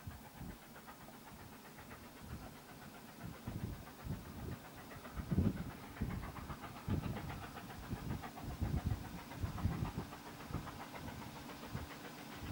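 Steam locomotive W901 working, heard at some distance: irregular low exhaust puffs over a faint steady hiss, with a steady low hum coming in about halfway through.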